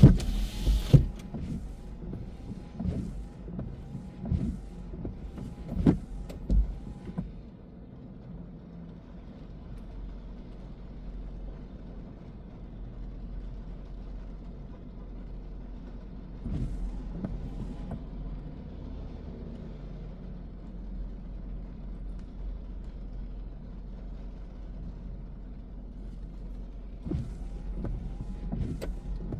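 A car driving, with a steady low rumble of engine and road. Several irregular knocks and thumps come through in the first seven seconds, and a couple more near the end.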